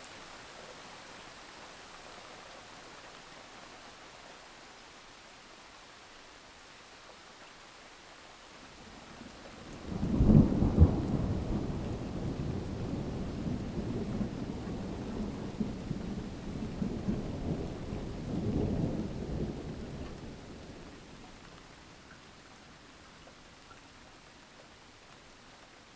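Thunderstorm: steady rain hissing, then about ten seconds in a sudden crack of thunder that rolls on as a deep rumble for about ten seconds, swelling once more before it dies away into the rain.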